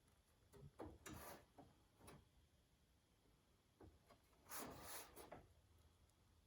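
Faint rubbing and scraping sounds of hands working a body panel: a few short ones in the first two seconds, then a longer one a little before the end.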